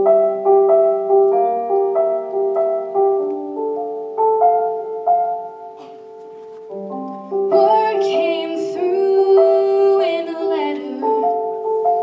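Piano playing a slow, gentle accompaniment, chords struck about every half second. About seven and a half seconds in, a solo female voice sings a phrase with vibrato for about three seconds, then the piano carries on alone.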